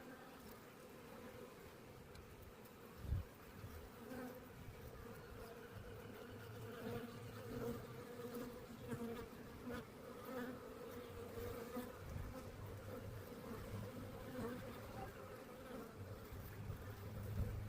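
A swarm of honey bees buzzing around a hive box, a steady wavering hum. The colony has just been moved into a new box, and bees are fanning at the entrance to guide the others in. There is a single low thump about three seconds in.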